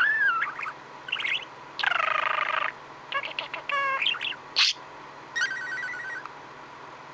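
Budgerigar chattering: a string of short warbles and chirps with pauses between, including a drawn-out buzzy call and a quick run of ticking notes.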